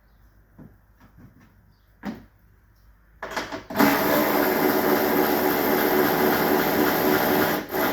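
A single knock, then a power tool's motor starting up and running steadily for about four seconds before stopping.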